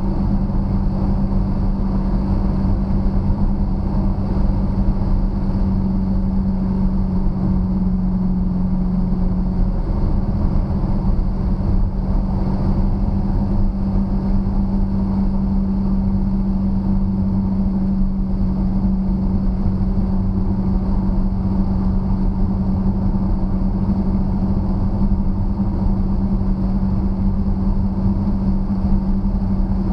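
2013 Dodge Challenger SRT8's 6.4-litre HEMI V8 running at a steady cruise, a constant engine drone that holds nearly the same pitch throughout.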